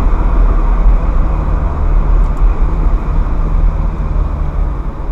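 Ferrari F430's 4.3-litre V8 running at a steady, moderate pace while the car is driven on the road, with tyre and road noise. It gets a little quieter in the second half.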